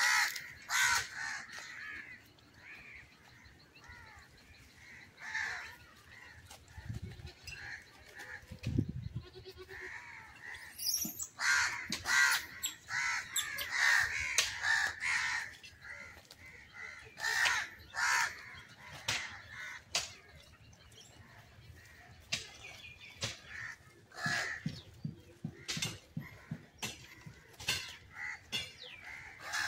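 Birds giving repeated short, harsh calls in clusters, with a couple of low thumps about seven and nine seconds in.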